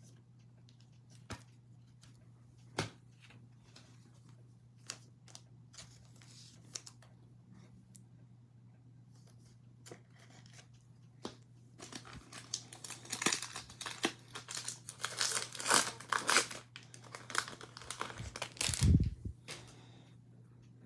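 A few light clicks of cards being handled, then several seconds of a trading-card pack's foil wrapper crinkling and tearing as it is opened, ending in a dull thump near the end. A faint steady low hum runs underneath.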